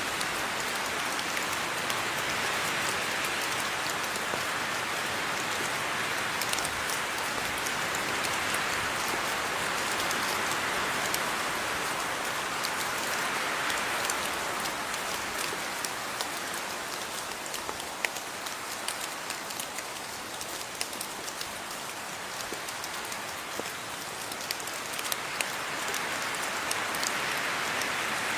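Steady rain falling, an even hiss with scattered sharper drop impacts; it eases a little midway and picks up again near the end.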